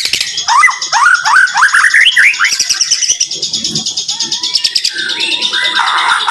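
White-rumped shama (murai batu) singing a dense, rapid-fire song: fast upward-sweeping notes in the first half over a continuous run of quick high notes, then a held whistle-like tone.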